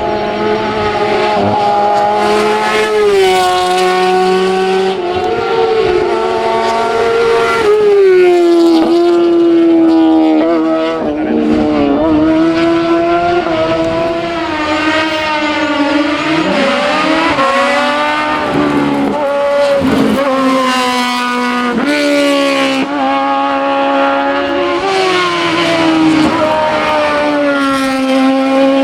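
Racing car engine at full throttle, its pitch climbing and dropping again and again as it is driven hard through the gears and corners.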